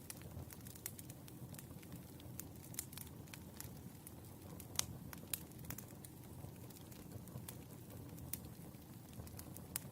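Wood fire crackling: irregular sharp pops and snaps over a low, steady rumble of burning logs, the loudest pops about halfway through.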